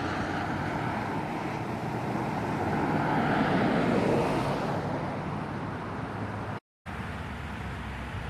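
Cars driving past on the street, with one vehicle passing close and loudest about three to four seconds in, under a steady low engine hum. The sound cuts out completely for a moment near the end.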